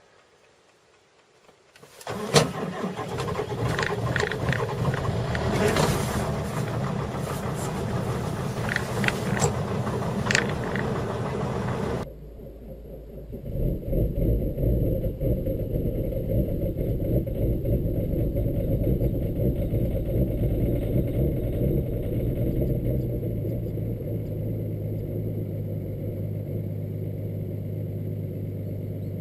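Diesel engines cold-starting and running: about two seconds in, one catches and runs loud and rough with sharp clicks and knocks. Partway through it switches abruptly to a steadier, lower engine hum that runs evenly until it cuts off near the end.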